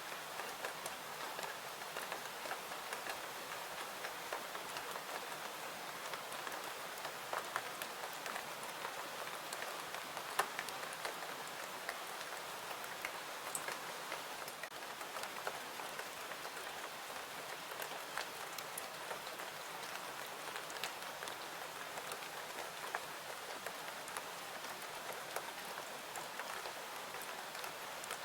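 Steady rain falling, an even hiss dotted with many small, sharp ticks throughout.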